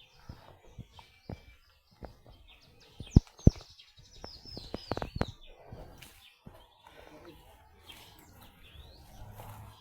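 A bird calling: a quick run of high, falling chirps a few seconds in. Two sharp knocks come just before it, the loudest sounds here, amid scattered small clicks.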